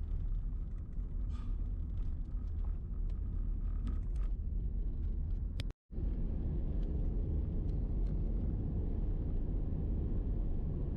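Steady road rumble of a Toyota Prius driving on a gravel logging road, with scattered small ticks. The sound cuts out completely for a moment about six seconds in, then the rumble carries on.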